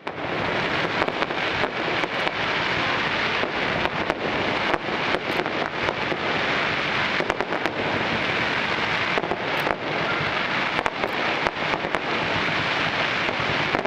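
Aerial fireworks display: a dense, continuous crackle with many sharp bangs following one another throughout.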